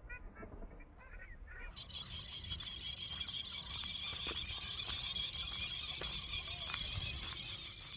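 Birds calling: short, quickly repeated calls at first, then from about two seconds in a dense, high, continuous chatter that goes on to the end.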